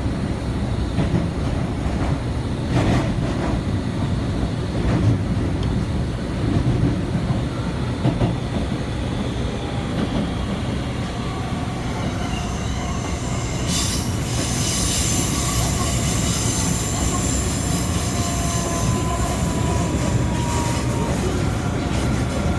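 A Kita-Osaka Kyuko 8000 series subway car running, heard from inside the car: a steady low rumble of wheels on rail. From a little past halfway, a high, hissing wheel squeal joins it, with a faint falling whine near the end.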